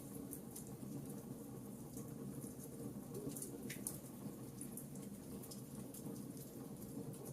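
Campfire burning, with scattered sharp crackles and pops over a steady low background noise; one pop stands out a little under four seconds in.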